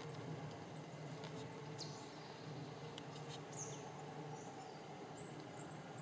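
Small songbirds giving scattered short, high-pitched chirps and quick call notes, faint over a steady low hum.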